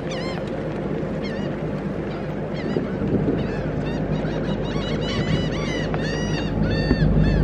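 A flock of birds calling in many short, repeated squawks, with a steady low rumble underneath.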